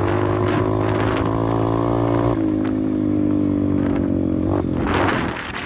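125cc pit bike engine running under throttle while riding. Its pitch drops a step about two seconds in, and near the end the engine note gives way to a brief rush of noise as the revs fall off.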